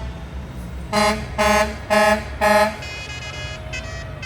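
Truck air horn sounding four short blasts about half a second apart, over the low rumble of idling engines. A fainter, higher horn sounds near the end.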